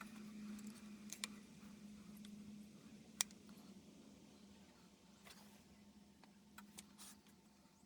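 Near silence: a faint steady hum with a few sharp light clicks and taps, the strongest about three seconds in. The clicks come as intake manifold gaskets are set in place on the engine.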